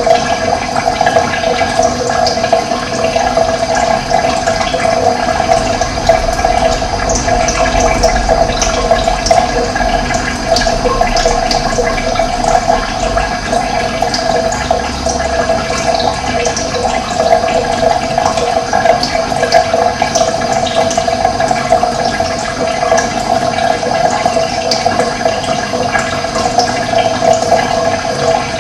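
Running water, a steady, continuous rush with fine splashing, recorded as a nature ambience.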